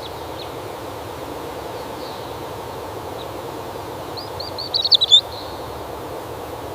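Steady outdoor ambience hiss, with a small bird giving a quick run of high chirps about four to five seconds in and a few fainter chirps earlier.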